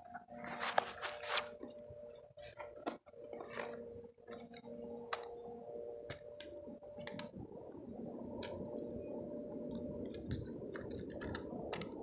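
Scattered small clicks and rustling of a foam-and-plastic RC plane being handled while its battery is taken out and swapped.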